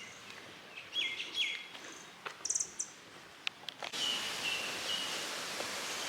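Wild birds chirping: two quick falling chirps about a second in, then, after background noise rises suddenly about four seconds in, a run of short repeated calls.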